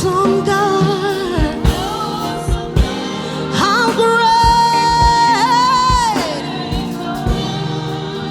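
Gospel song: a solo voice sings long, bending notes, holding one about halfway through, over a backing band with drums.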